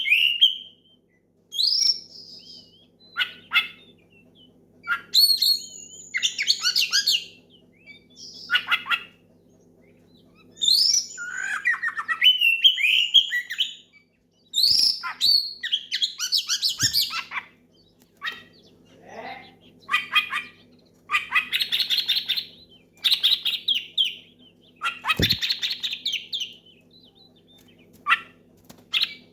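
Oriental magpie-robin (kacer) singing loudly, in repeated bursts of clear whistles, gliding notes and scratchy chattering phrases separated by short pauses. It is a loud challenge song aimed at rival males. A faint steady hum lies underneath.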